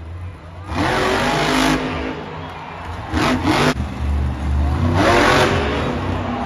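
Monster truck's supercharged V8 revving hard in three bursts, its pitch rising with each throttle blast, over a steady low engine note.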